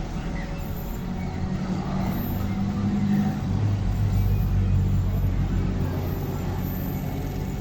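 Low, steady rumble of a diesel locomotive's engine. It grows louder toward the middle, then eases slightly.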